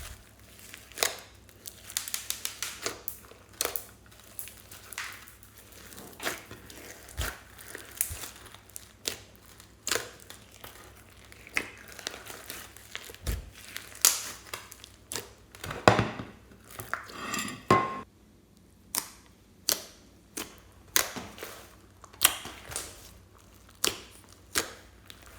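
Slime being squeezed, poked and stretched by hand, giving irregular sharp crackling pops and clicks, one or two a second, with a longer run of crackling about two-thirds of the way through.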